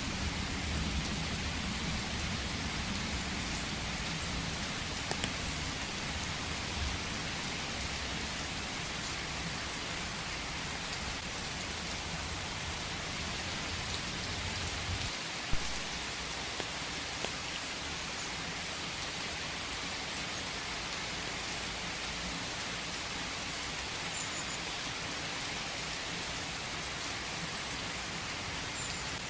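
Steady rain falling in a forest, an even hiss of drops. A low rumble underneath fades out about halfway through, where a single sharp drop-like tick stands out.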